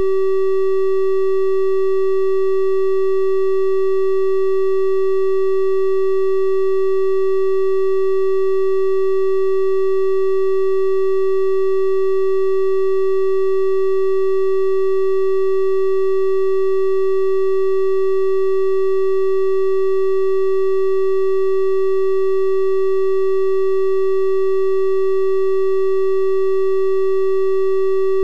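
Synthesised 384 Hz triangle-wave test tone, held steady and unchanging, a soft flute-like hum with faint higher overtones.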